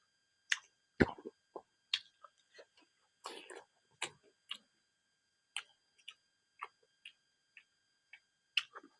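Close-miked mouth sounds of someone chewing silkworm pupae: soft, irregular wet clicks and smacks, about one or two a second, with a slightly longer smack a little over three seconds in.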